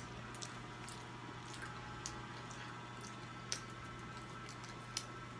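A child chewing pizza with her mouth, soft wet mouth sounds with a few small clicks, the clearest about three and a half and five seconds in, over a steady low hum.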